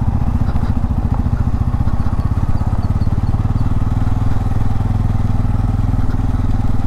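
Bajaj Pulsar N250's single-cylinder engine running steadily under way while riding off-road, with an even, rapid firing beat and no change in speed.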